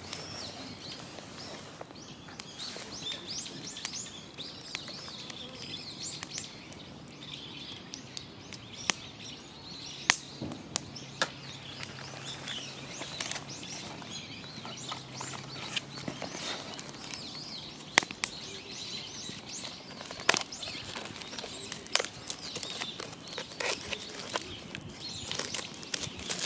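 Wood fire in a small fire pit crackling, with scattered sharp pops, the loudest about ten, eighteen and twenty seconds in, over a steady faint hiss; small birds chirp in the background.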